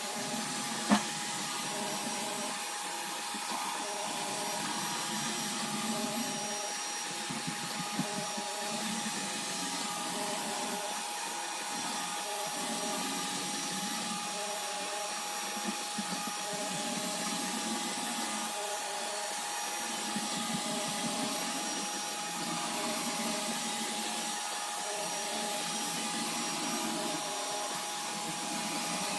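iRobot Roomba robot vacuum running steadily, a constant motor whine over the hiss of its brushes and suction, with a sharp knock about a second in and a few lighter ticks.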